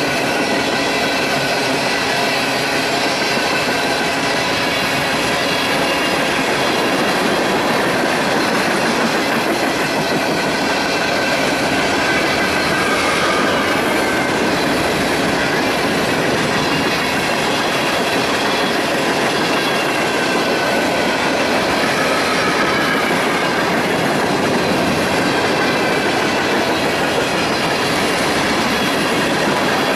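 Railroad cars rolling steadily past at track level, wheels clattering over the rail joints, with a faint wavering wheel squeal above the rumble.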